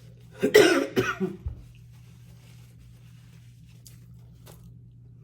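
A person coughing in a short fit of several coughs, about half a second in and lasting around a second, over a faint steady low hum.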